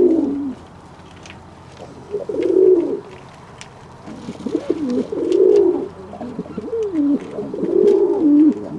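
Domestic fantail pigeons cooing: low, wavering coos repeated in about four phrases of a second or so each.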